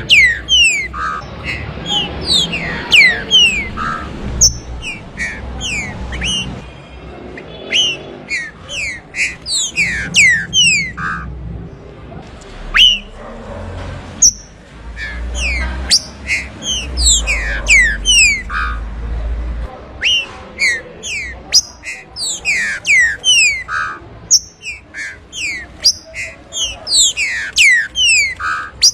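Green-winged saltator (trinca-ferro) singing: quick runs of sharp, falling whistled notes, repeated phrase after phrase. A low rumble sits under the song for a few seconds in the middle.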